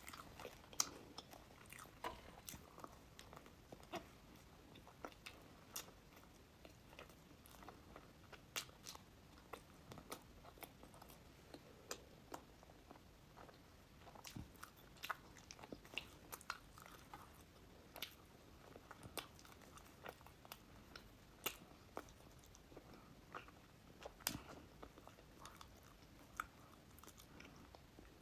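Close-miked eating: a person biting and chewing a dessert, with many small sharp crunches and mouth clicks scattered throughout.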